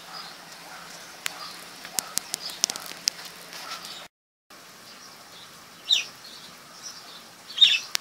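Small birds chirping, with a quick run of sharp clicks in the first half. After a short dropout, two louder single calls: one falling in pitch about six seconds in, another just before the end.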